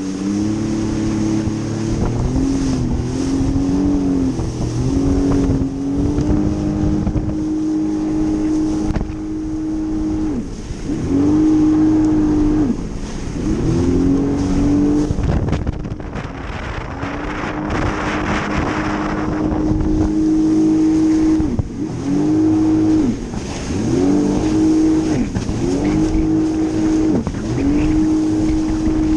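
Jet ski engine running at high revs, the throttle let off and opened again every few seconds so the pitch dips and climbs back each time. A rush of water spray swells around the middle.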